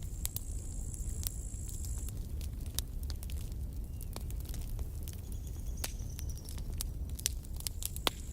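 Campfire burning with a low steady rumble and frequent sharp crackles and pops of burning wood. A thin high whistle sounds twice, in the first two seconds and again near the end.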